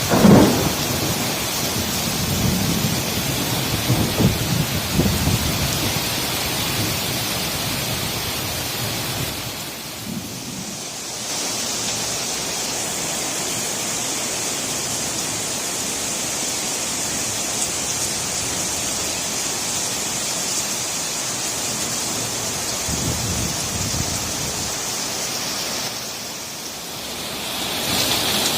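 Heavy rain pouring steadily, with low rumbles in the first few seconds, the loudest just at the start. The downpour dips briefly about ten seconds in and again near the end.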